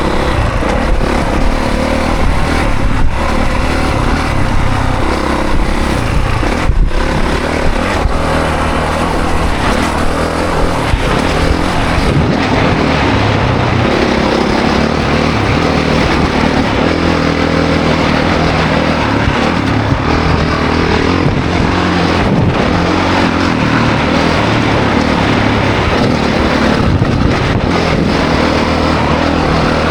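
Honda CRF450 dirt bike's single-cylinder four-stroke engine running hard while being ridden, its note rising and falling with the throttle.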